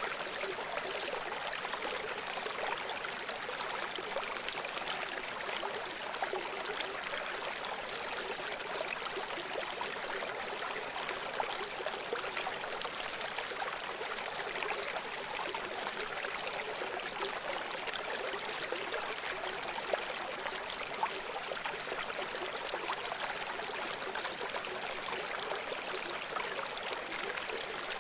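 Running stream: water flowing and trickling over rocks, a steady even rush with small splashes.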